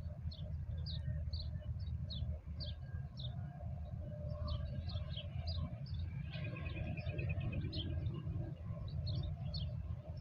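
Small birds chirping, short high chirps coming two or three a second, with a brief trill about six seconds in, over a steady low rumble.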